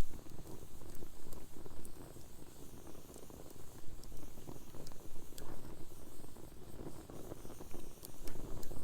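Wood fire in a fire pit crackling, with scattered sharp pops at irregular moments.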